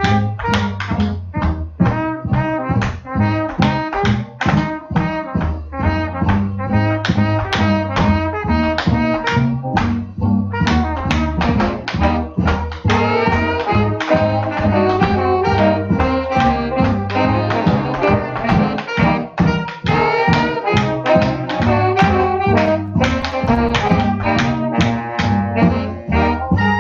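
Swing jazz band recording, brass and saxophones playing over a steady, even beat.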